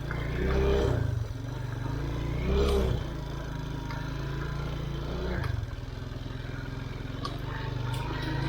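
Off-road motorcycle engine running, swelling briefly twice in the first three seconds, then settling to a steady idle.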